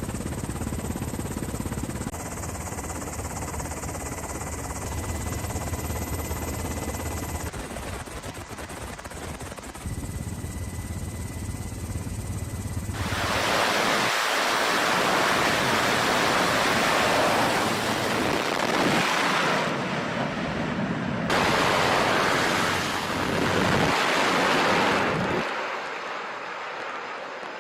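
Steady rushing noise over a low rumble, growing louder and brighter about halfway through, with several sudden changes in level.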